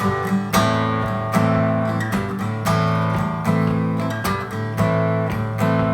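Acoustic guitar strummed in a steady rhythm, starting suddenly: the instrumental intro to a song, with no singing yet.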